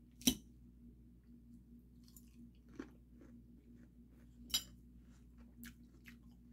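Chewing crisp lettuce salad, with a few sharp clicks: the loudest just after the start and another about four and a half seconds in.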